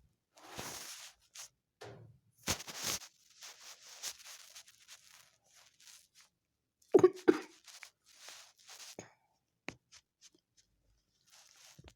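Kittens scuffling: intermittent rustling and scratching, with a brief louder double sound about seven seconds in.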